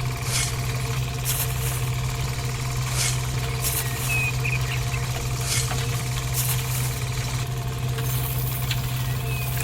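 A small motor running steadily with a constant hum, with short hissing bursts now and then.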